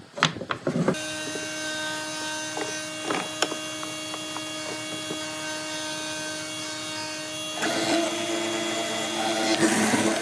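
Handheld electric power tool: a few knocks of handling, then the motor starts and runs at a steady whine, and near the end it bites into wood with a louder, rougher cutting noise.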